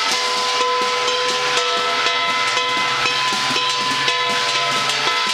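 Chinese ritual percussion playing: a steady run of quick drum and metal percussion strikes over held ringing tones.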